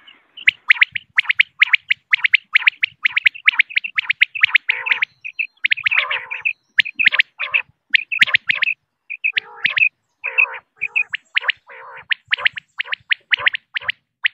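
Female common quail calling: a rapid run of short, sharp chirping notes, about three to four a second, with a few brief pauses.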